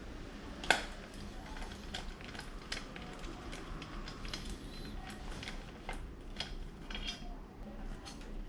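Scattered light metal clinks and clicks from tools and small hardware being handled during a motorcycle battery change, with one sharp click about a second in.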